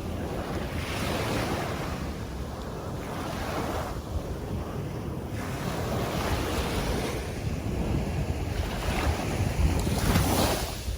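Sea surf washing onto a beach in repeated swells, with wind buffeting the microphone in a steady low rumble.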